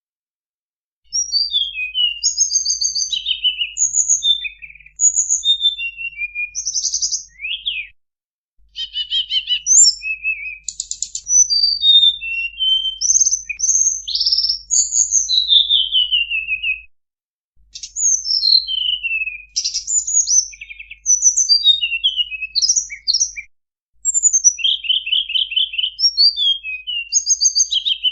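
Recorded song of the tledekan bambu played as a bird-catcher's lure call: a rapid, varied run of high chirps, trills and falling whistles, stopping briefly three times between phrases. A faint low hum from the recording runs under the song.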